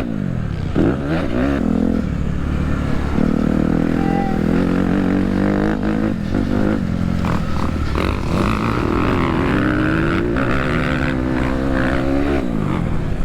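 Dirt bike engine being ridden hard, its pitch climbing as it revs and dropping off as the throttle is closed, several times over; there is a sharp drop just after the start and another near the end.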